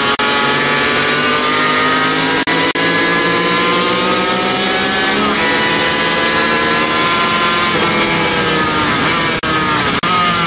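Onboard sound of a motorcycle engine at high revs on track, its pitch climbing steadily, a gear change about five seconds in, then falling on downshifts around eight to nine seconds before climbing again near the end, over a steady rush of wind noise.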